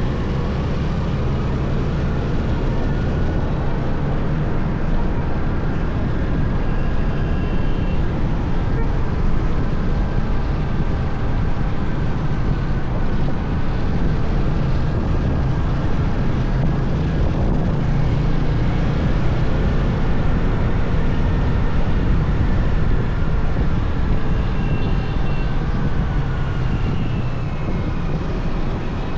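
Motorcycle engine running steadily while riding through city streets, its pitch drifting gently up and down with speed.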